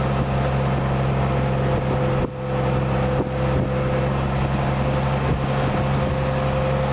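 Boat engine running steadily, a constant even hum under wind and water noise.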